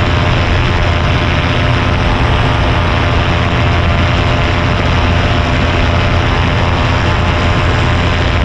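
Paramotor engine and propeller running steadily at cruise power in flight, a loud, even drone with a low hum underneath.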